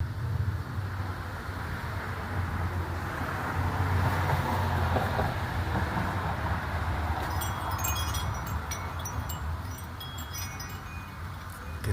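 Wind chimes ringing in many quick, scattered strikes from about seven seconds in, over the steady rush of gusty wind.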